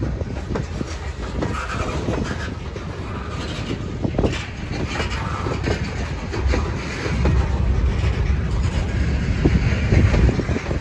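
Freight train of covered hoppers and tank cars rolling past close by: a steady rumble of steel wheels on rail with repeated clicks and knocks, the rumble growing louder in the second half.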